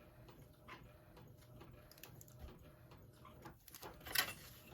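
Faint handling sounds of paper and bookboard on a work table: soft scattered taps and rustles, with a slightly louder tap or rustle near the end.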